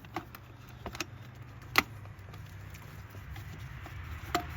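A few separate sharp metallic clicks and clinks of a socket and extension on a coil pack bolt in a truck's engine bay, the loudest a little under two seconds in, over a low steady hum.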